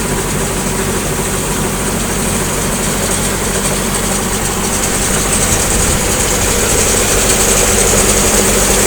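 Combine harvester running steadily: a low engine hum under a high hiss, growing a little louder about halfway through.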